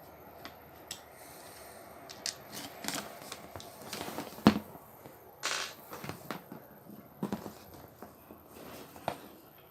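Scattered small clicks, knocks and scrapes of a Phillips screwdriver, screws and plastic housing parts being handled as an angle grinder is unscrewed and taken apart, with one sharp knock about halfway through and a brief scrape just after it.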